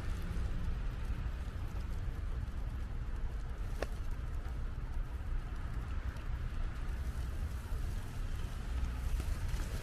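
Outdoor street ambience: a steady low rumble of city traffic under a haze of noise, with one brief high squeak almost four seconds in.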